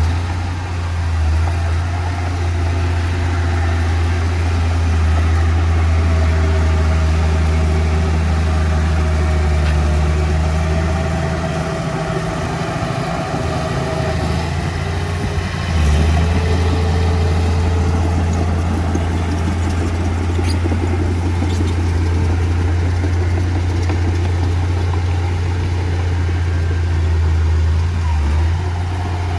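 Heavy construction machine's diesel engine running steadily with a deep drone. About twelve seconds in, the engine note drops back for a few seconds, then picks up again.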